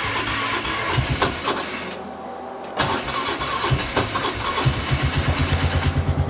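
A four-wheeler (ATV) engine being cranked cold with the choke on after sitting for months. It cranks in two tries with a short lull between them, catches about three-quarters of the way in, and settles into a steady fast-pulsing run.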